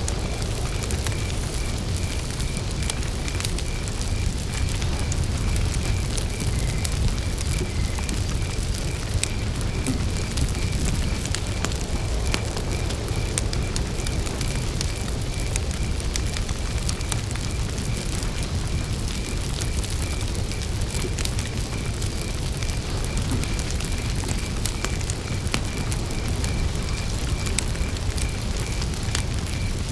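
Wood campfire burning, with scattered crackles and pops over the low rush of the flames. A cricket chirps steadily in the background in an even, pulsing rhythm.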